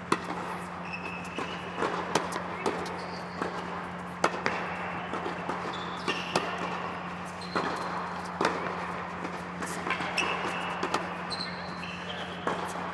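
Tennis balls being struck by rackets and bouncing on an indoor court, a sharp knock every second or so at an irregular pace, with short high squeaks and a steady low hum in the hall.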